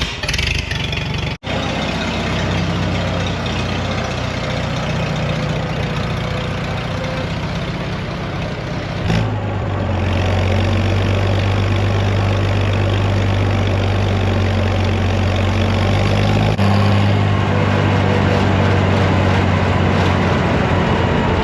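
Old Farmall tractor engine running steadily under way. Its note steps up and gets louder about nine and a half seconds in, and shifts again around sixteen seconds.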